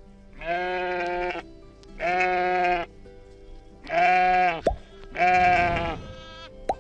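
Sheep bleating four times, each call about a second long, over background music.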